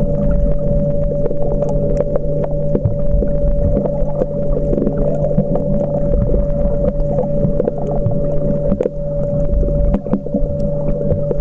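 Underwater sound recorded while snorkelling: a steady hum with one constant tone over a low rumble, with scattered faint clicks.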